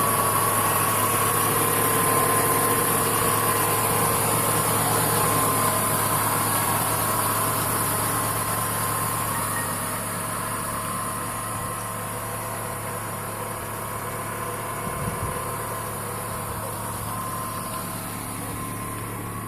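Car engine with about 70,000 km on it idling steadily and evenly, with a brief low knock about three-quarters of the way through.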